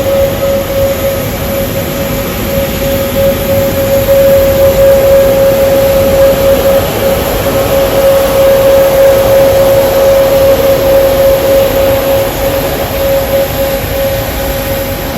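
Jet aircraft engines running: a steady whine over a constant rush of engine noise.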